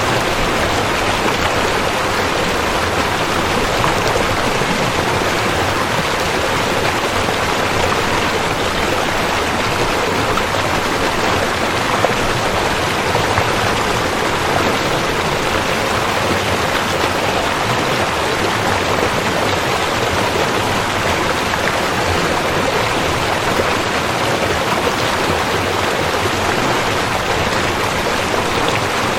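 A river running: the steady, even rush of flowing water over rocks.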